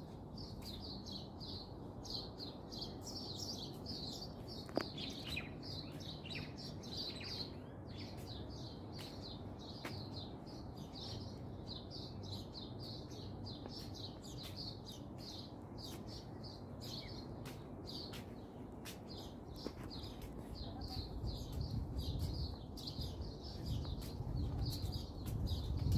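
Small birds chirping rapidly and continuously, several short chirps a second, over a low steady background rumble.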